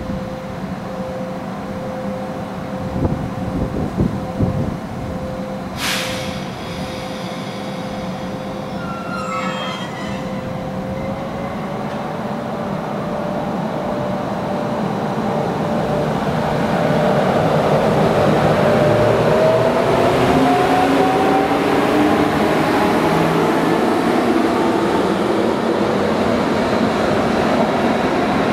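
Electric double-deck passenger train approaching the level crossing, its whine rising in pitch and growing louder from about halfway on. A single sharp clank sounds about six seconds in.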